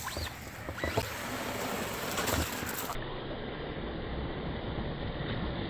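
Electric RC trucks (Traxxas Rustler VXL, brushless) running in mud, motors whining in short rising and falling revs over a steady churning noise, with a sharp knock about a second in.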